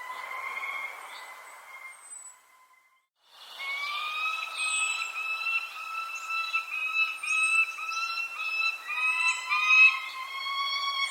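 Birds calling: long whistled notes broken into short segments, with quick high chirps over them. The sound drops out about two seconds in and comes back a second later.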